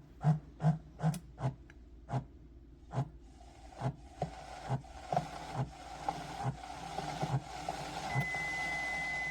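Single-serve coffee maker brewing: its pump knocks in a rhythm of about two strokes a second, a steady hum comes in about three seconds in, and a steady high tone starts near the end.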